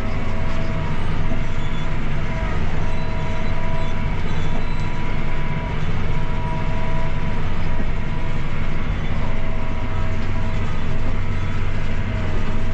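Tractor engine running steadily under load while pulling a Hesston baler, a constant low drone heard from inside the cab.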